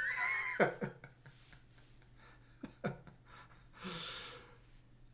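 Pause between a man's sentences: a short wordless vocal sound at the start, a few mouth clicks, and a breath drawn in about four seconds in.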